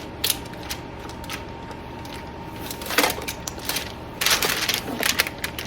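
Metal fork pressing down the sealed edge of crescent roll dough, its tines clicking against the surface underneath in irregular taps, with a quicker run of clicks about four seconds in. A faint steady hum runs underneath.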